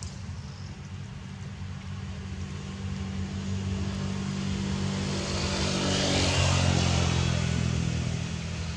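A motor engine running steadily, growing louder to a peak about two thirds of the way through, then easing off a little.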